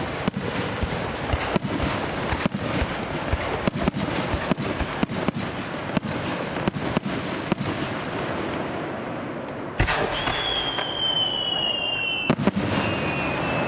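Fireworks bursting in a rapid barrage, several bangs a second over a dense crackle, easing off about eight seconds in. Then a single bang is followed by a high whistle that falls slightly in pitch for about two seconds, and two more bangs come near the end.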